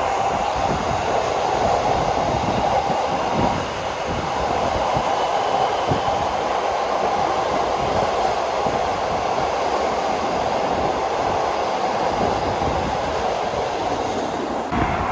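A train running along the track: a steady rumble and rattle of wheels and carriage with scattered knocks, changing abruptly just before the end.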